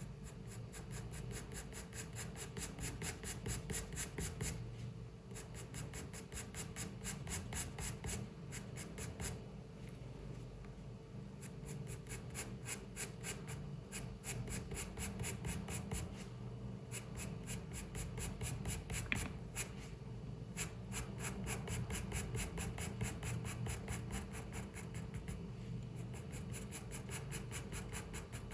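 Pencil scratching on paper in rapid back-and-forth strokes, in runs of a few seconds broken by brief pauses, over a low steady room hum.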